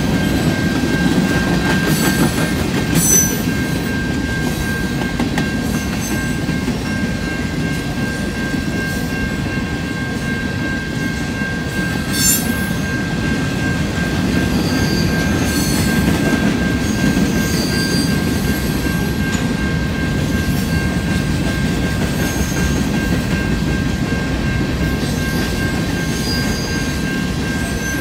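Empty covered hopper cars of a freight train rolling past: a steady low rumble of wheels on rail, with a few sharp clanks and brief high wheel squeals. A steady high tone sounds over it throughout.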